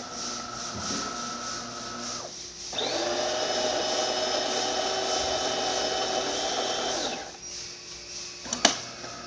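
DeLonghi Gran Dama espresso machine working through a shot. It runs with a steady hum for about two seconds, pauses briefly, then runs louder with a steady hum for about four seconds, and gives a sharp click near the end.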